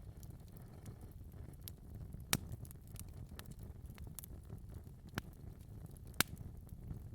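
Wood fire crackling in a fireplace: a low steady rumble of flames with scattered small snaps and three sharper pops, the loudest about two and six seconds in.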